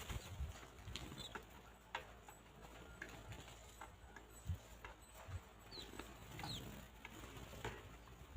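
Chickens pecking at the ground: scattered faint taps and clicks at no steady rhythm, with a couple of short high bird chirps past the middle.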